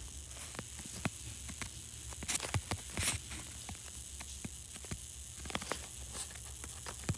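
Subway car running between stations, heard from inside: a steady low rumble and hiss with scattered faint clicks and ticks, the strongest a couple of seconds in and again about three seconds in.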